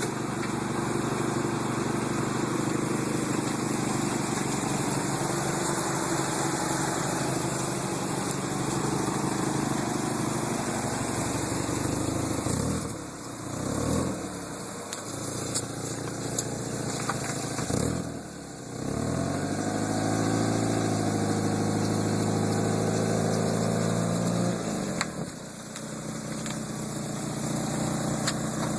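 Mitsubishi Galant's 4G64 2.4-litre inline-four running through its exhaust: steady idle, with the engine speed swinging twice near the middle, then held steady for about five seconds before settling back to idle.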